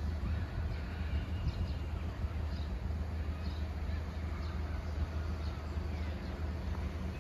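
Faint bird calls recurring every second or so over a steady low rumble.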